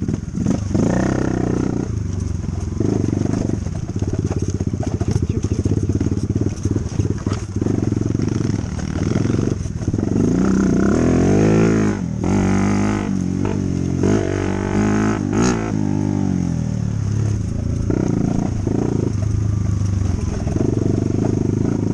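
Dirt bike engine running while riding. Its pitch rises and falls with the throttle several times through the middle of the stretch.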